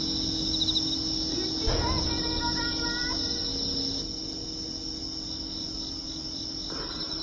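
Crickets chirping steadily in a high, even drone with pulsed trills, with a single muffled thump about 1.7 seconds in, likely a distant firework.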